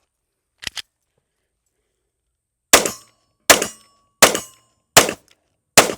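A short double click, then five 9mm shots from a Smith & Wesson Shield Plus pistol, fired at an even pace about three-quarters of a second apart, each with a brief ringing tail.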